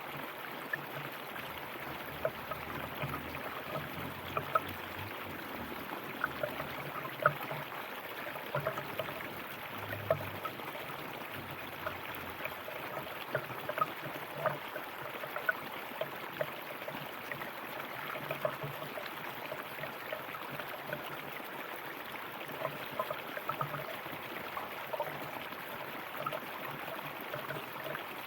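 River water flowing: a steady rush with frequent small splashes and gurgles.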